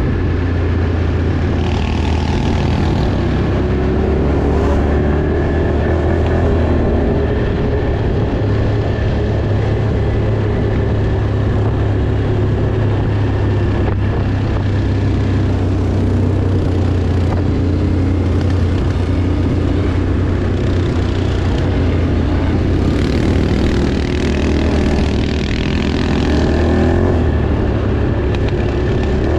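Off-road vehicle engine running steadily while riding, a continuous low drone with a steady whine above it and slight rises and falls in engine speed.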